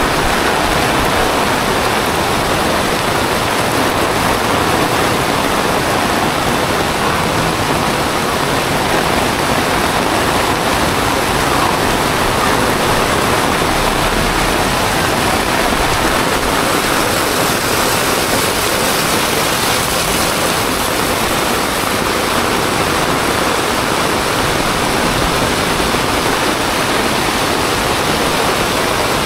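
Torrential tropical rain pouring down on the street and roofs, a loud, steady, dense hiss.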